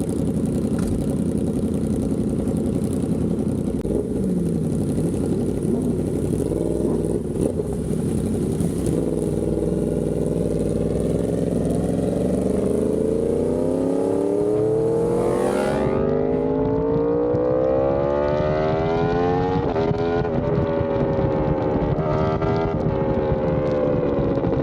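Yamaha R1M crossplane inline-four sport bike through an SC Project exhaust, pulling hard under acceleration. The revs climb steadily for several seconds, then the pitch drops sharply at quick upshifts, twice near the end.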